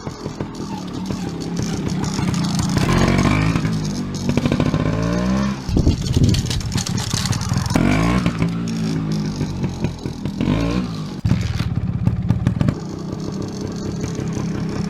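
Vintage Beta Synt trials bike's two-stroke single-cylinder engine running, revved several times with the pitch rising and falling, then settling into a steady run near the end.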